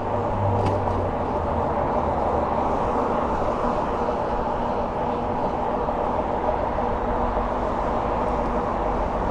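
Steady rushing wind and road noise from riding an e-bike, with a low steady hum underneath.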